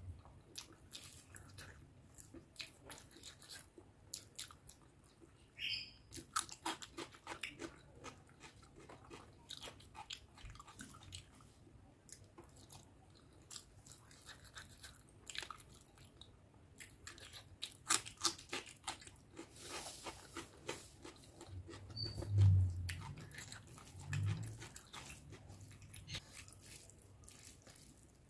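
Close-up wet chewing and mouth smacks of someone eating curry and rice by hand, a stream of short sharp clicks. Two brief low thuds about three quarters of the way through are the loudest sounds.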